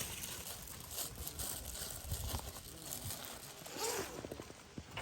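Campfire of wood and pine cones crackling, with scattered sharp pops.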